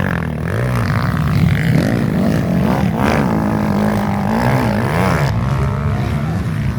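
Several motocross dirt bike engines revving, their pitch rising and falling again and again as the bikes accelerate and back off.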